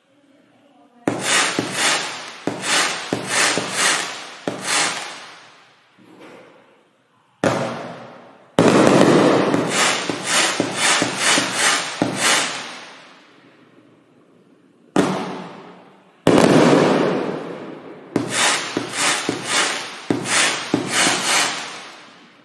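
Great Grizzly 'Full Spectrum' 500-gram fireworks cake firing its shots. Volleys of sharp bangs come several a second, with the sound of each barrage dying away before the next volley starts.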